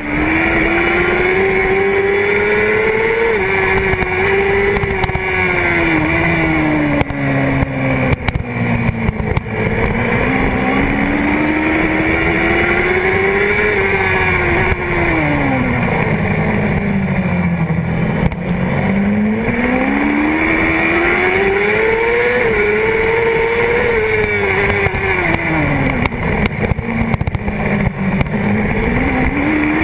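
Honda CBR600RR's inline-four engine at racing speed, heard from the fuel tank: it revs up through the gears, with short dips at each upshift, then winds down into the corners, about three times over.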